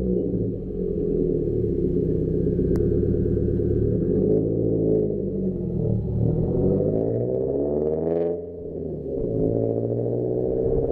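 Subaru's flat-four engine, through an aftermarket exhaust, pulling up through the revs with its pitch falling away at the gear changes and then climbing again.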